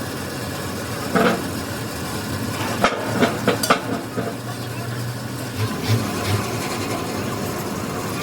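Steady workshop machinery noise with a few sharp metallic knocks and clicks, and a low hum through the middle.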